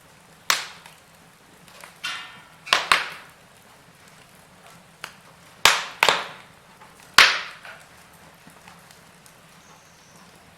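Wood fire in a fireplace crackling, with about eight sharp pops at irregular intervals, several of them loud, and a short hiss about two seconds in.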